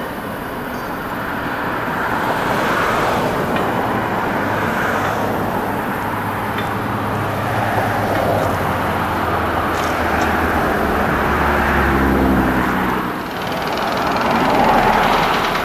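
Road traffic going by in repeated swells, with a heavy engine running low underneath that climbs in pitch about twelve seconds in before dropping away.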